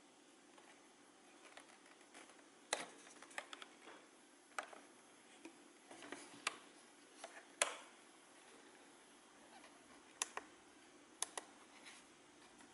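Light, irregularly spaced button clicks, about a dozen over the stretch, the sharpest near the start and in the middle, over faint room tone.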